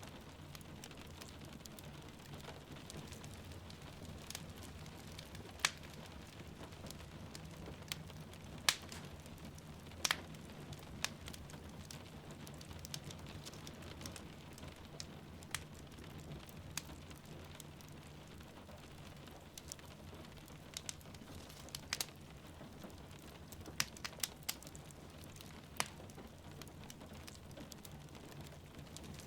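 Wood fire crackling with sharp, irregular pops, over a steady hiss of rain falling.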